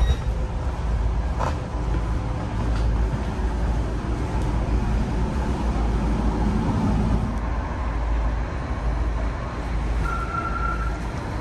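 Steady low rumble inside a standing Stadler FLIRT diesel commuter train, its power unit and ventilation running, with a couple of faint clicks and a short beep near the end.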